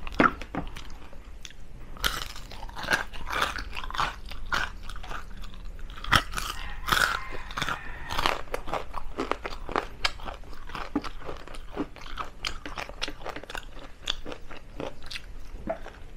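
Close-miked crunching and chewing of crispy deep-fried chicken feet. A dense run of loud crackly crunches starts about two seconds in and thins out to softer, sparser chewing in the second half.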